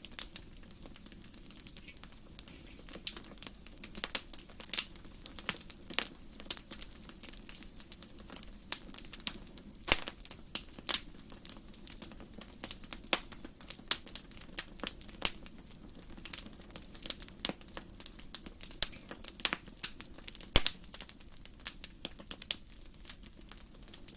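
Wood fire in a fireplace crackling: irregular sharp pops and snaps, several a second, some louder than others, over a steady low background.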